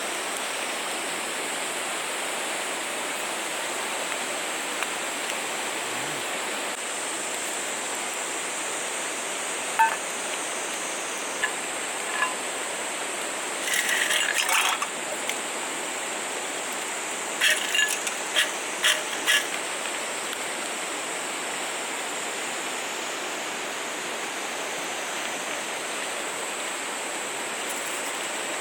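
Steady rushing noise like running water, with a few short sharp clicks and a brief clatter around the middle.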